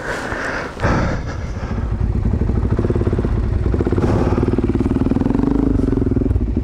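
Adventure motorcycle engine running at low revs on a steep loose dirt slope as the rider turns the bike around; it gets louder about a second in and holds steady, its pitch wavering slightly.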